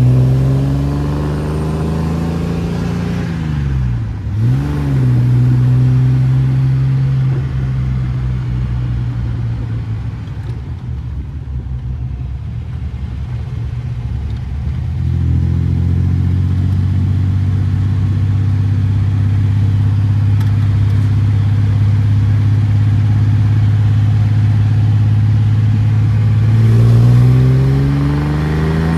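The 3.0-litre inline-six of a 1967 Austin-Healey 3000 MkIII BJ8 heard from the driver's seat while driving. Its pitch falls at first, with a quick rev up and down about four seconds in, runs lower through the middle, then holds steady before rising as the car accelerates near the end.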